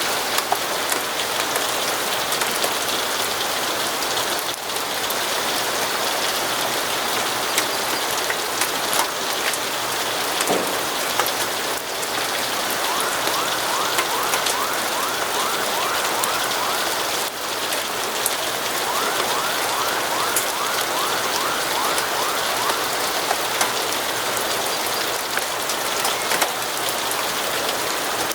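Steady rain falling on a surface, an even hiss with scattered sharp drop clicks. Twice in the middle, a short run of quick, repeated high chirps sounds over it.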